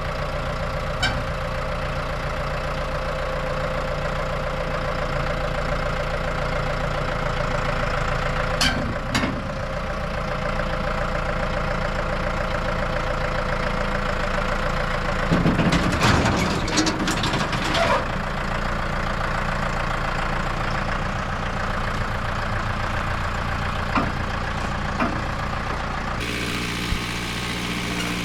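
Heavy farm machine's engine running steadily, with a cluster of knocks and rattles about halfway through. The engine note shifts near the end.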